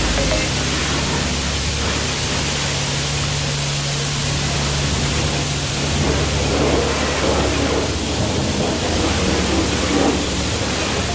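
Automatic car wash running, a steady loud rush of spraying water or blowing air with a low hum underneath.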